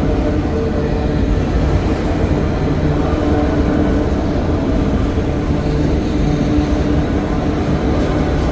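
Freight train rolling slowly past: a steady low rumble of wheels on rail, with a constant hum.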